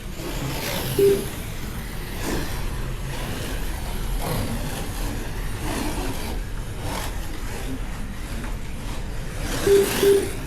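Slot cars lapping a track, their small electric motors whining and rising and falling in pitch as they brake and accelerate. Short electronic beeps from the lap timing system sound once about a second in and twice near the end.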